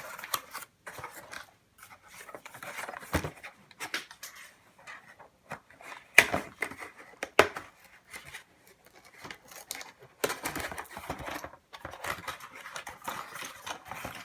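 Rustling and scraping of the box and packaging being handled as parts are taken out of an RC truck's box, with a few sharp clicks and knocks, the loudest about six seconds in.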